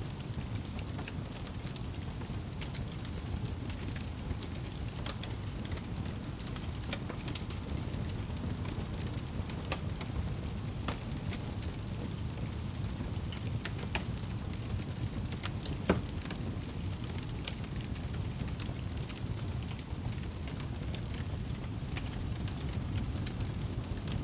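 Wood fire crackling in a fireplace: a steady low rumble of the burning logs with scattered sharp snaps and pops, one louder pop a little past the middle.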